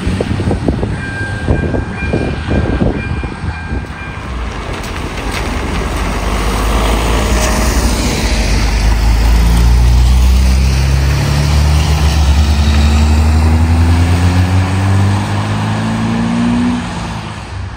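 Classic rally car engines: first a car's engine runs with rough, uneven low pulses, then a car accelerates past, its engine note climbing in several rising steps as it shifts up through the gears.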